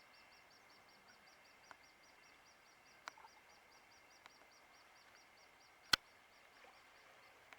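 A small bird's faint, high-pitched call: one short note repeated about six times a second without a break, with a sharp click about six seconds in.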